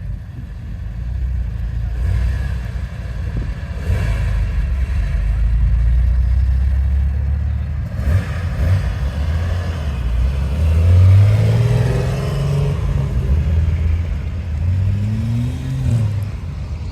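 Car engine running and revving, its pitch rising and falling, with rising revs in the middle and again near the end.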